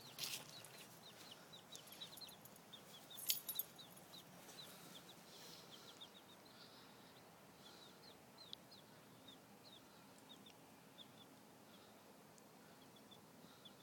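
Baby chicks peeping faintly, a scatter of short high peeps, with a sharp knock about three seconds in.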